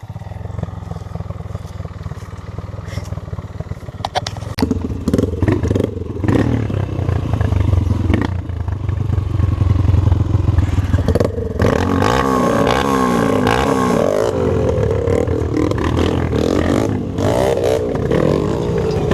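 Dirt bike engine running under way on a trail. It gets louder about four seconds in and revs up and down repeatedly in the second half, with scattered knocks and rattles.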